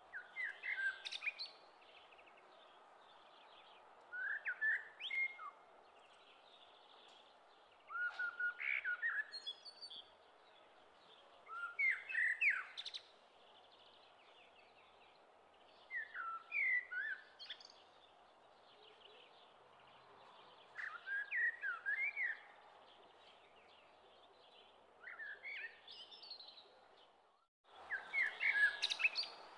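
A songbird singing short phrases of quick chirps, one phrase about every four seconds, over a steady background hiss, with a brief gap near the end.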